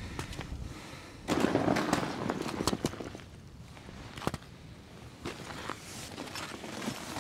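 Footsteps crunching over ice-covered ground, with scattered sharp cracks and snaps of ice; a denser stretch of crunching comes about a second in, and a single sharper crack just after the middle.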